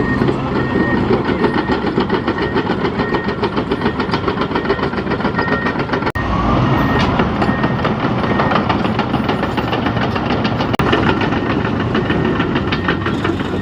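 Tractor engine running hard with a fast, even knocking beat. A reversing beeper sounds over it until about halfway, and the sound drops out twice for an instant.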